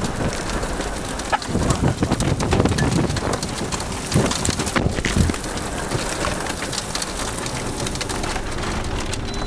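Rain and wind in a severe thunderstorm: a steady rush with many sharp ticks of drops striking, and a few louder knocks about two and five seconds in.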